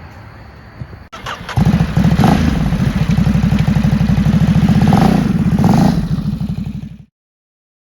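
Ducati Supersport 950 S's 937 cc L-twin engine running loud with a fast, even pulsing beat and a few brief swells in revs. It starts about a second and a half in and cuts off abruptly about seven seconds in.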